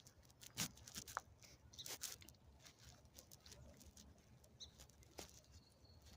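Near silence, with a few faint, scattered clicks and light rustles.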